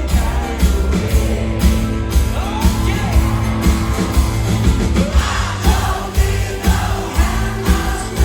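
Rock band playing live with a singer, over a steady drum beat of about two hits a second.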